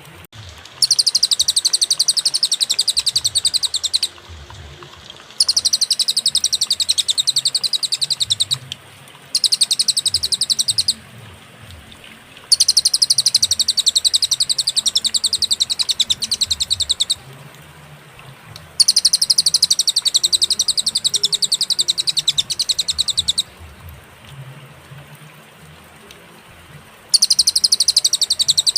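Cililin bird singing in long, rapid, high-pitched trills, each lasting a few seconds, with short pauses between phrases.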